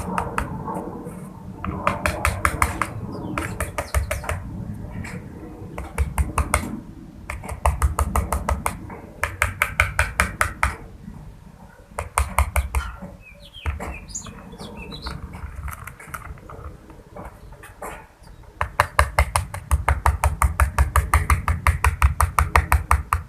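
Rapid, evenly spaced tapping, about six taps a second, in bursts of one to four seconds, the longest near the end. A few short high chirps from a white cockatiel come about halfway through.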